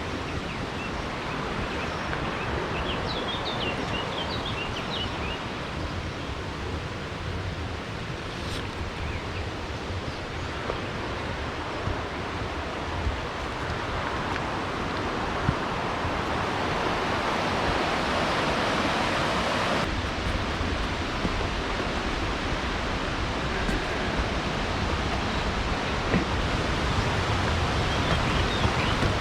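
Steady rush of flowing water, with a small bird chirping several times a few seconds in.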